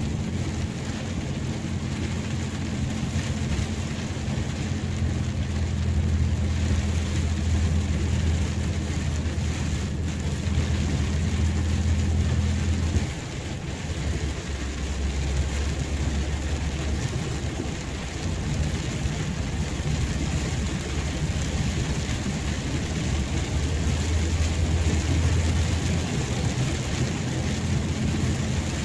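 Steady rain, with a low rumble underneath that cuts off about halfway through and comes back more faintly later.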